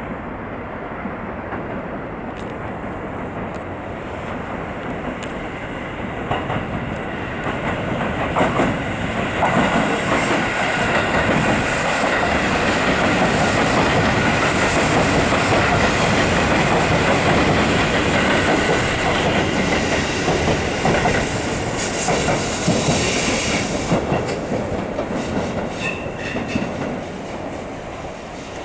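Tobu Skytree Line electric train running on rails, its wheels clicking over rail joints. The sound grows louder from about eight seconds in, stays loud through the middle, then fades toward the end.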